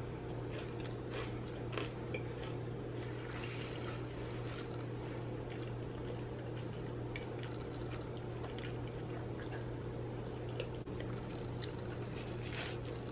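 A person chewing a bite of pizza, with scattered faint crunching clicks, over a steady low background hum.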